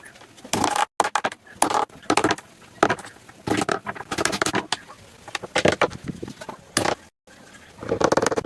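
Wood being worked by hand: irregular knocks, scrapes and crackles of tools on timber, broken by a couple of abrupt cuts.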